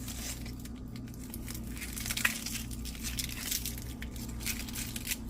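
Onion layers being pulled and peeled apart by hand: scattered short crisp tearing and crackling sounds over a steady low hum.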